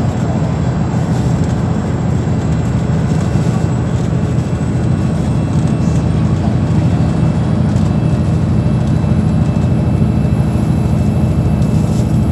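Steady low rumble of a vehicle in motion, loud and unchanging throughout, with a faint thin high whistle slowly rising in the second half.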